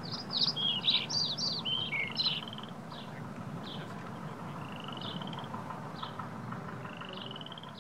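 Birds chirping and calling: a quick run of varied chirps in the first couple of seconds, then scattered short calls and two level trills, over a steady low background rumble.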